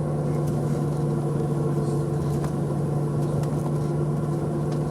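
Engine of the tour vehicle running at a steady speed, heard from inside the cabin as an even low hum with a steady droning tone.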